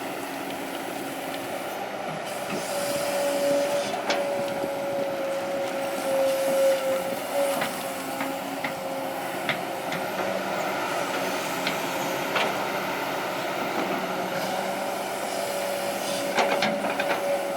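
Kobelco SK200-8 excavator working: a steady engine drone with a whine that comes in about three seconds in, fades around the middle and returns near the end, and scattered sharp knocks and clanks.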